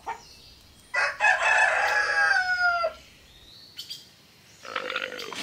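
A rooster crowing once, a single cock-a-doodle-doo about two seconds long that drops in pitch at its close, followed by a fainter sound near the end.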